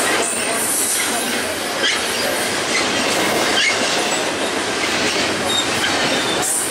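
Double-stack container train's well cars rolling past at speed: a loud, steady rush of steel wheels on rail, with a few sharp clacks and brief high wheel squeaks.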